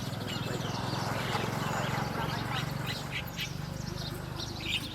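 Small birds chirping: short, high chirps come scattered through, thickest near the end, over a steady low hum.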